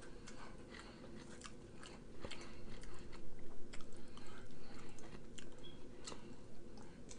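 A person chewing close to the microphone, with irregular mouth clicks and smacks over a faint steady hum.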